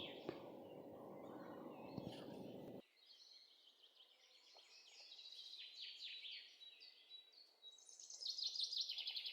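Faint birds chirping, with repeated short, downward-sweeping chirps and a busier patch near the end. A low steady hum under them cuts off abruptly about three seconds in.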